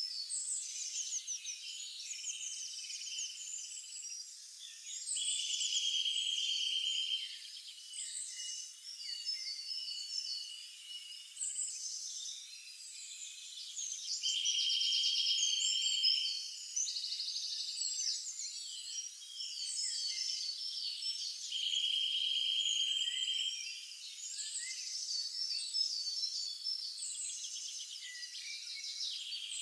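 Several songbirds chirping and singing over one another, with a dry, even trill about two seconds long that repeats every seven or eight seconds.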